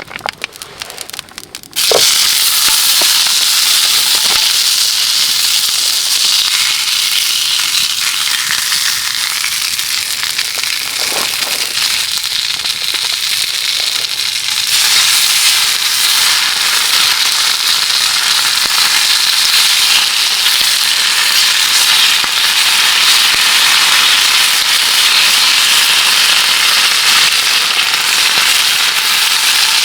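Heavy rain drumming on a camping tarp: a dense, steady crackling patter that starts abruptly about two seconds in and grows a little louder halfway through. Before it, a few sharp crackles.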